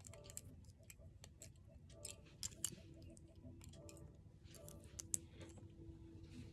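Faint, scattered clicks and taps of hard plastic toy pieces being handled and fitted together.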